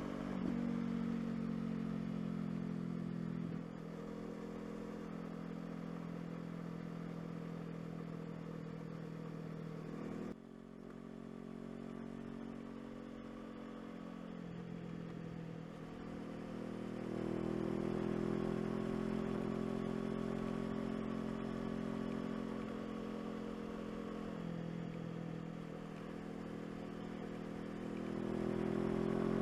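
Honda CBR500R's parallel-twin engine running while riding, its revs rising and falling with the throttle. There is an abrupt drop in level about ten seconds in, and the engine pulls harder again near the end.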